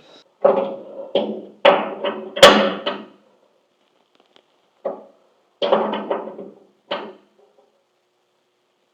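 Metal tools and parts knocking and clinking, each knock ringing briefly. There is a quick cluster of them in the first three seconds and a few more between about five and seven seconds, as a wrench and nut are worked onto a vacuum wiper motor's mounting stud.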